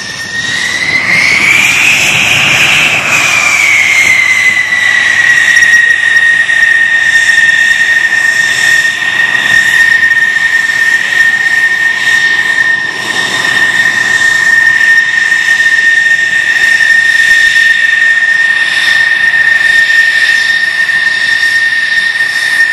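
F-16 jet engine running with a loud, steady high whine over a rushing noise. In the first few seconds the whine rises in pitch and settles back as the engine briefly spools up and down.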